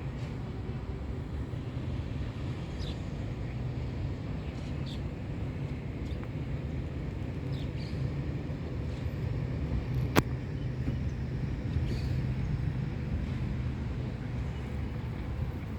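Steady low hum of road traffic, with a few short high chirps and one sharp click about ten seconds in.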